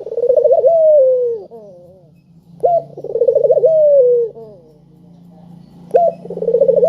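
Dove cooing: repeated calls, each a short sharp rising note, a quick rolling coo, then a long falling note trailing off. Two full calls and the start of a third.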